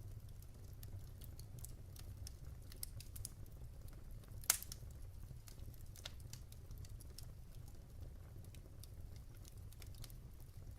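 Log fire in a fireplace crackling: scattered small pops and snaps, with one louder pop about four and a half seconds in, over a low steady rumble.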